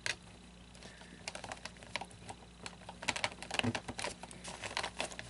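Light clicks and taps of hard plastic as an animatronic figure's glued-on head is handled and pried at, scattered at first and coming thick and fast over the last two seconds.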